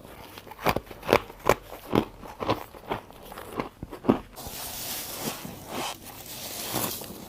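A person biting into chunks of freezer frost, close to the microphone: a run of sharp, crisp crunches about two a second. About four seconds in, this gives way to a denser, hissy crackling crunch.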